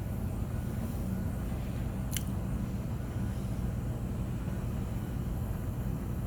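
Street sweeper truck running steadily with a low, even rumble. A single sharp click sounds about two seconds in.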